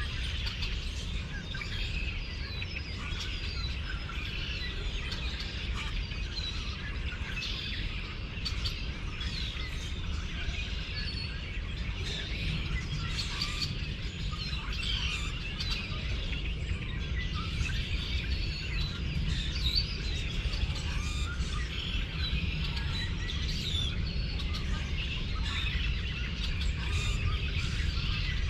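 Many birds chirping and twittering at once in a dense, continuous chorus of short, quick calls, over a steady low rumble.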